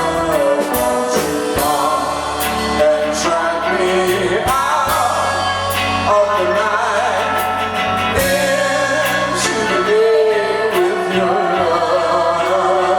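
A rock band playing live: drums with cymbal strikes under a dense band sound and a wavering melody line, in the wordless middle of a song.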